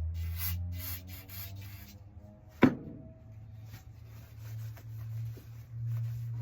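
Wiping and rubbing strokes, several quick ones in the first two seconds and fainter scuffs later, with a single sharp knock about two and a half seconds in.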